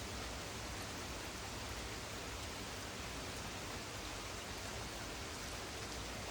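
Thunderstorm rain falling steadily in gusty wind: an even hiss over a low rumble.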